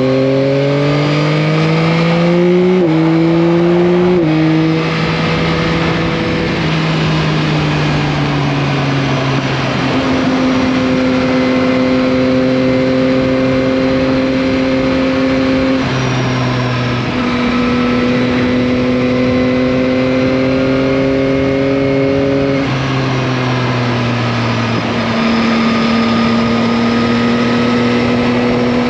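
Yamaha MT-09 (2021, RN69) 890 cc three-cylinder engine under way. It revs up and shifts up twice, about three and four seconds in, then runs at steady cruising revs with small changes in pitch.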